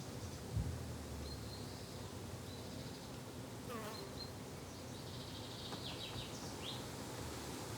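Garden insects buzzing steadily, with a few short high bird chirps in between and a brief soft thump about half a second in.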